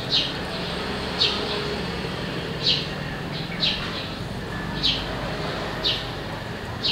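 A small bird chirping over and over, one short falling chirp about every second, over steady low background noise.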